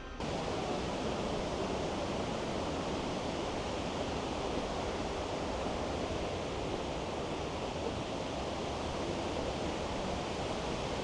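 Steady rushing noise, even and unbroken, that starts abruptly just after a cut.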